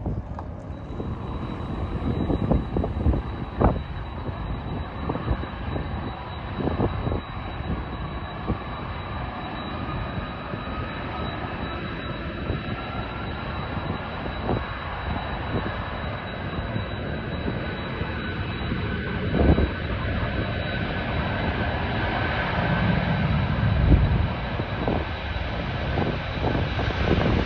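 Jet airliner's engines running, a steady rush of noise with a thin high whine, slowly growing louder toward the end as the aircraft draws nearer. A few short low thumps break through, typical of gusts of wind hitting the microphone.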